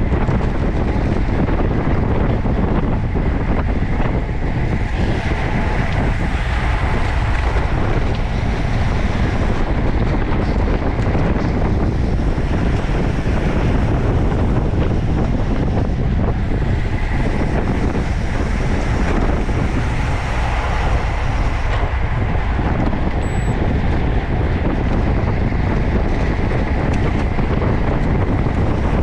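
Wind buffeting the microphone of a camera on a moving road bicycle, a steady rumbling rush of noise.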